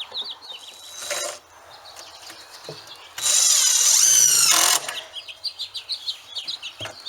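Power drill driving a screw into wood, one run of about a second and a half starting about three seconds in. Birds chirp around it.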